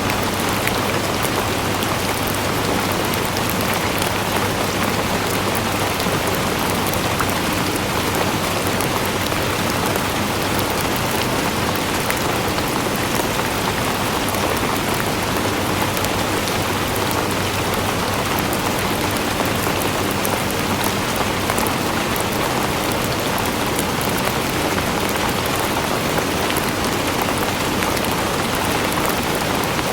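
Steady rain falling on a surface, a constant even hiss of many drops with no let-up.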